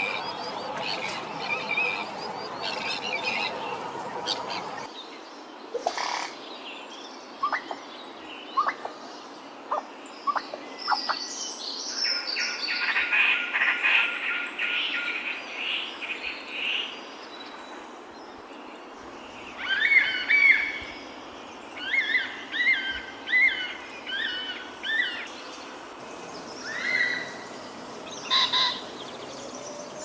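Wild birds calling: scattered short chirps, a dry rapid rattle for a few seconds near the middle, then a run of short whistled phrases about once a second. The background hiss changes suddenly a few times, as between spliced recordings.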